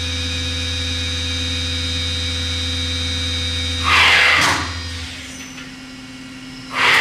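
Miyano TSV-35 CNC drill-tap machine's spindle running steadily at 5,000 RPM with a hum and a high whine. About four seconds in there is a short loud rushing hiss, the whine stops, and the hum dies away a second later as the spindle shuts down. Another brief rushing burst comes near the end.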